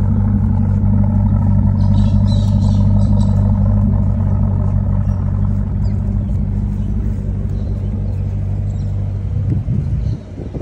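1998 Chevrolet Corvette C5's LS1 5.7-litre V8 idling steadily through aftermarket headers and a Borla exhaust, an even, deep engine note; it drops away about nine and a half seconds in.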